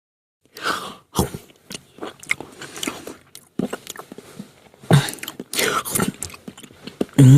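Someone biting and chewing crunchy food, a run of irregular crunches. Near the end comes a drawn-out pitched voice sound that dips and rises in pitch.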